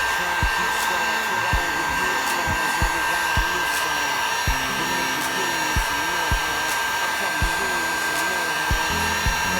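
Harbor Freight 1500-watt dual-temperature heat gun running steadily: an even rush of blown hot air with a constant high whine.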